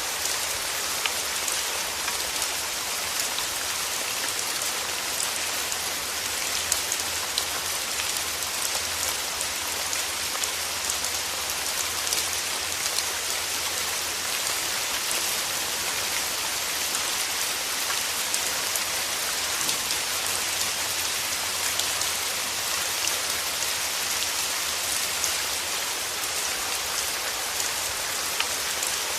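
Steady rain falling through forest trees, a dense even hiss of drops with frequent small individual drop ticks on leaves.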